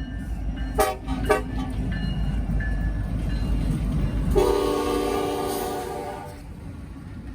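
Diesel freight locomotive horn sounding one chord of several notes for about two seconds near the middle, over the low rumble of a train. Two sharp knocks come about a second in.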